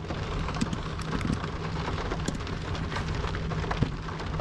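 Rain falling on a car's roof and windshield, heard from inside the cabin: a steady hiss scattered with many small, sharp drop ticks.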